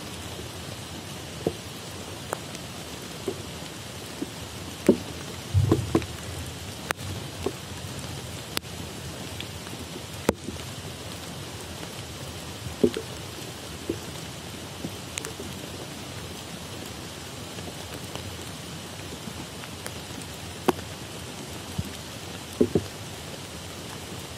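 Steady rain falling on tropical forest foliage, with scattered heavy drops striking close by as sharp single ticks. A louder low thump about five and a half seconds in.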